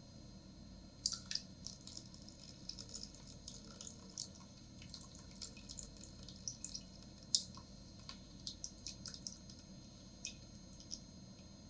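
Food cooking in a pan: small scattered pops and crackles, irregular, a few a second, with one louder pop about seven seconds in.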